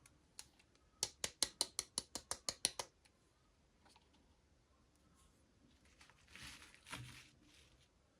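Toy packaging being handled: a quick run of about a dozen sharp clicks, about six a second, then a short rustle about six seconds in.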